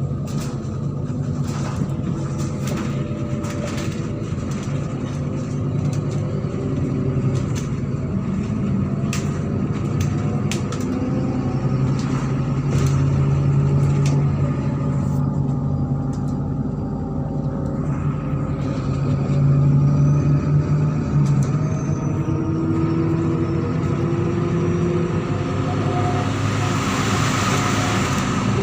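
Diesel engine of a MAZ-103 city bus running under way, heard from inside the bus. The engine note rises and falls as the bus changes speed, with scattered rattles and a hiss near the end.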